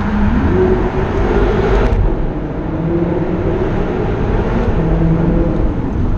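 BMW F10 M5's twin-turbo V8 with a full Akrapovic exhaust under hard acceleration. The engine note rises, drops abruptly at a gear change about two seconds in, then keeps pulling in the next gear.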